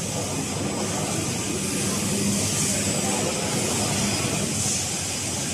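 CNC woodworking machine running: a steady mechanical drone with a constant low hum and a strong high hiss, with no distinct strikes or changes.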